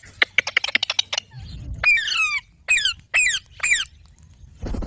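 Pet Indian ringneck parakeet calling: a quick run of short, sharp chirps, then four harsh squawks about half a second apart, each falling steeply in pitch.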